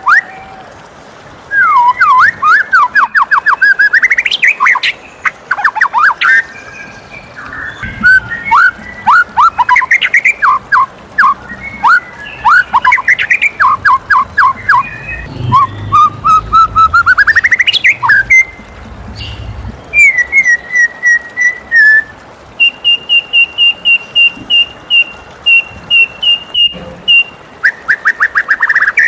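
White-rumped shama singing a long, varied song of loud whistled phrases: fast runs of sweeping notes, rising trills, and near the end a quick series of repeated high notes on one pitch.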